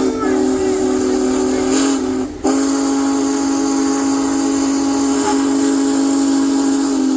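Big Boy 4014's steam whistle blowing a long chord, cut off briefly about two seconds in and then held again in a second long blast, with steady steam hiss underneath.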